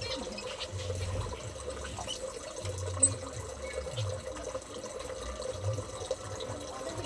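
Water running and trickling, with a low hum that swells and fades about every two seconds and a sharp click about three seconds in.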